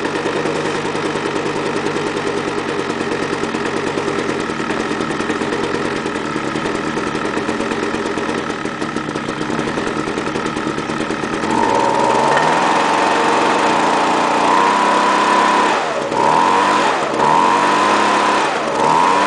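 Homelite two-stroke leaf blower, just cold-started at about 0°F and off choke, idling steadily. About two-thirds of the way through it is revved up to high speed, drops back briefly three times and revs up again each time, running evenly.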